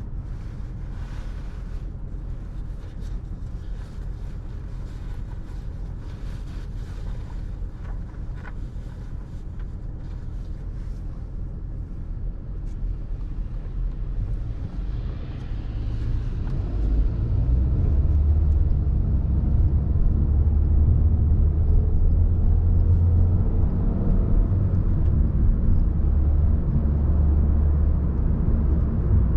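Road traffic on a busy city street: a steady low rumble with scattered light clicks, growing louder about halfway through and staying heavy.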